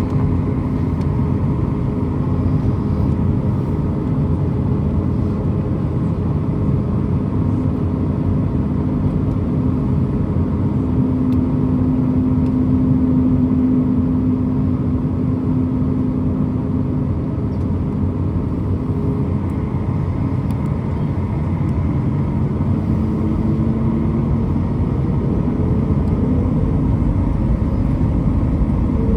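Boeing 737 MAX 8-200's CFM LEAP-1B jet engines running at low thrust, heard from inside the cabin: a steady rumble and hum with a few held tones that shift slightly in pitch near the end.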